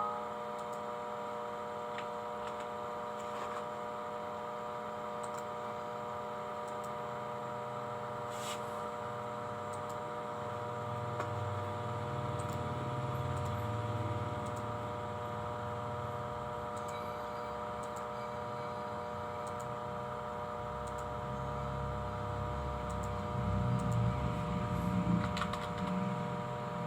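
A steady electrical hum made of several held tones, with a low uneven rumble rising underneath from about ten seconds in and again near the end.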